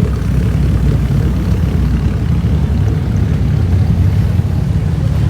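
A steady, low car engine rumble with no clear revving or change.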